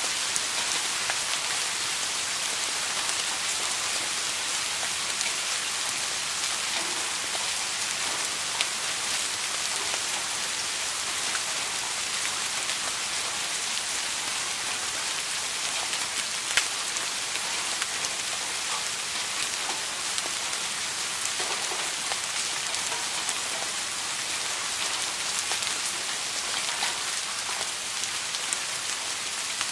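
Steady rain falling on a surface: an even hiss with scattered small drop ticks and an occasional sharper tap.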